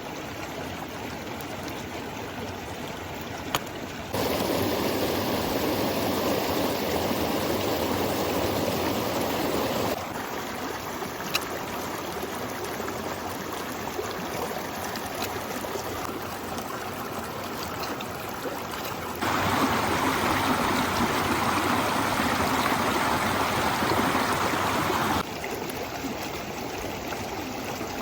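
River water running in a steady rush, stepping abruptly louder and fuller twice for about six seconds each, with a couple of faint clicks.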